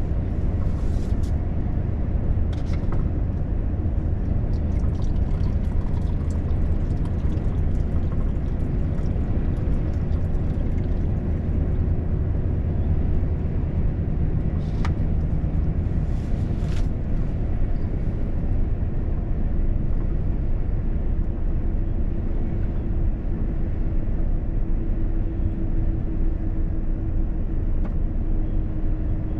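Volvo FH truck driving at steady speed: a constant low engine and road rumble, with a faint steady whine joining about halfway through and a few light ticks in the first half.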